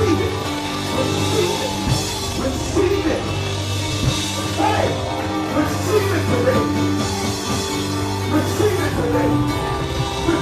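Live gospel praise music from a church band, with long held chords and a drum kit, and voices singing and calling out over it.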